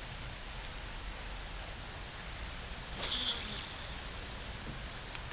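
Steady outdoor hiss over still water. About two seconds in, a bird gives a quick run of short high chirps, followed about a second later by a brief, louder rasping burst, and there is a sharp click near the end.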